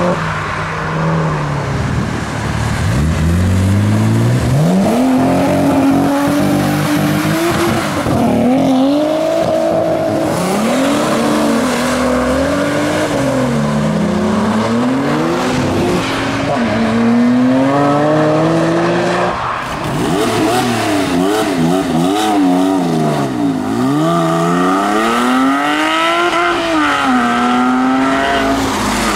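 A series of sports and modified cars accelerating hard away one after another. Their engines rev up through the gears and drop sharply at each gear change.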